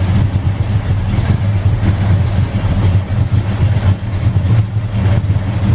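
Mopar Performance 472 Street Hemi V8 in a 1970 Dodge Charger running at idle, a steady, deep, uneven pulse.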